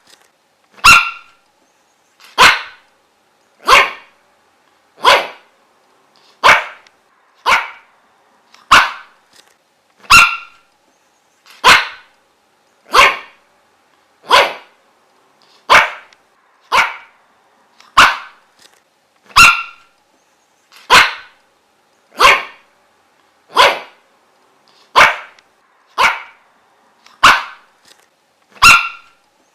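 A dog barking single sharp barks, evenly spaced at about one every second and a quarter, over and over.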